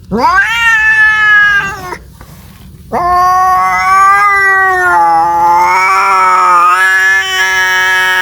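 Domestic cat yowling (caterwauling). There is a rising call of about two seconds, then a pause, then a long drawn-out yowl from about three seconds in that wavers in pitch and carries on past the end. This is the kind of yowl a cat makes when calling for a mate.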